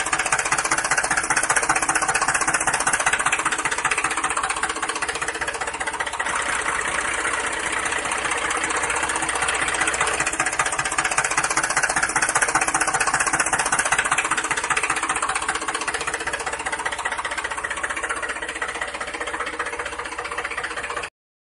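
Small motor of a home-made model tractor cultivator running steadily with a fast, even rattling chatter. It cuts off suddenly near the end.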